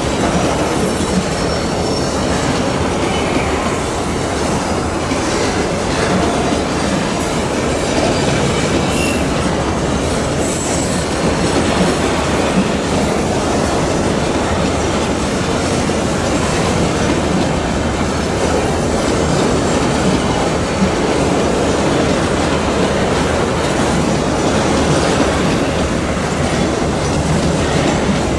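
Long coal train of steel hopper wagons rolling past on a curve: a steady rumble and clatter of wheels on the rails. A faint high wheel squeal comes and goes a few times.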